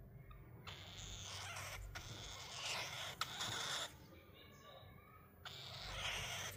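Angry cockatiel hissing, a defensive warning, in two long bouts: one lasting about three seconds, then another starting near the end.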